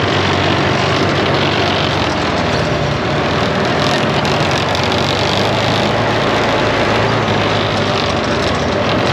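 ATV engine running steadily under way on a trail, with an even rushing noise over its low drone.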